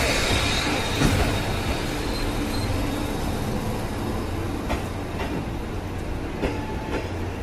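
Passenger coaches of a steam-hauled train rolling past at close range: a steady rumble of wheels on the rails, with a hiss that fades over the first two seconds and several sharp clicks from the wheels crossing rail joints in the second half.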